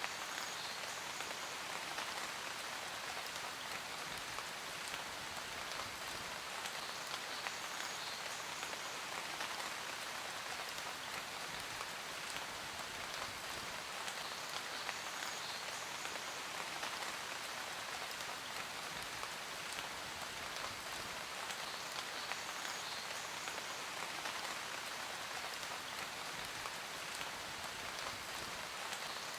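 Steady rain falling, with many fine raindrop ticks on a hard surface in an even hiss.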